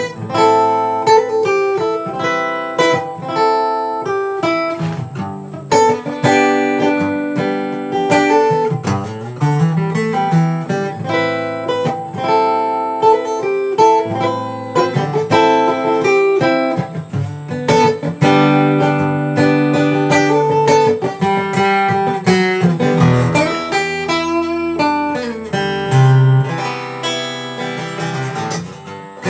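Solo acoustic guitar playing an instrumental introduction, picked notes and strummed chords in a steady rhythm, with no singing.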